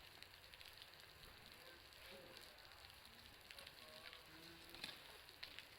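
Faint, irregular ticking and pattering of meltwater dripping from a building's roof, a sound very like a crackling bonfire. A few sharper ticks come near the end.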